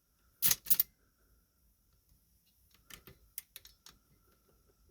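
Antique Chicago typewriter being struck: two sharp clacks about half a second in, then a run of lighter clicks around three seconds in. The escapement catches and hangs up after a couple of strokes, which the owner puts down to a dirty escapement.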